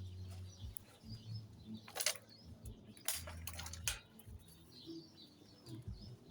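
Faint bird chirps, with a few short rustles or knocks and patches of low rumble on the microphone.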